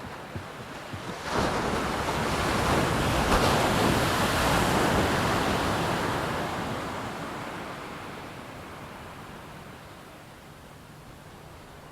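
A loud rush of air noise that swells suddenly about a second in and fades away over several seconds. A few light knocks come just before it.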